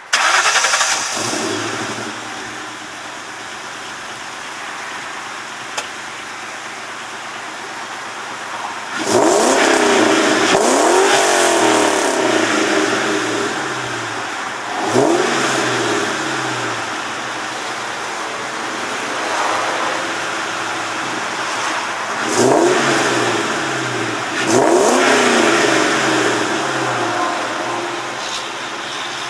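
2003 Ford Mustang GT's 4.6-litre V8 through a Pypes catted X-pipe and Magnaflow mufflers, starting up with a loud flare and settling to a steady idle. It is then blipped up and down in several rev bursts, each falling back to idle.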